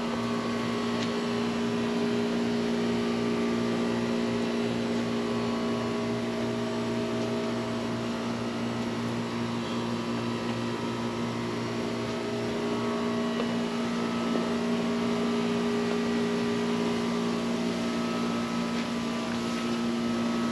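Steady mechanical hum with a low, even drone.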